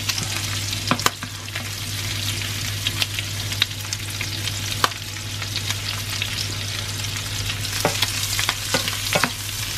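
Bacon and green beans sizzling in a frying pan, with scattered clicks and scrapes of a wooden spoon stirring them. A steady low hum runs underneath.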